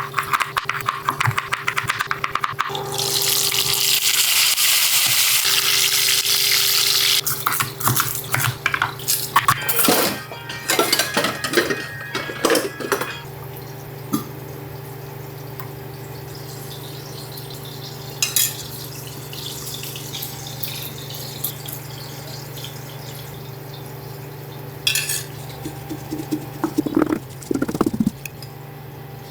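A kitchen tap runs for about four seconds, then dishes and utensils clatter and clink for several seconds. After that it goes quieter, with a few scattered knocks over a steady low hum.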